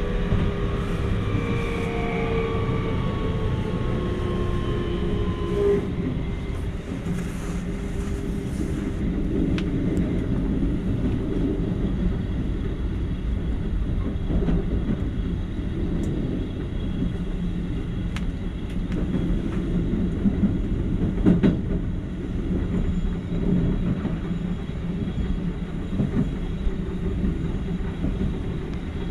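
Keikyu electric train running, heard from inside the cab: a steady rumble of wheels on rail with occasional clacks over rail joints. For the first few seconds an electric motor whine sounds over it, sinking slightly in pitch and fading out about six seconds in.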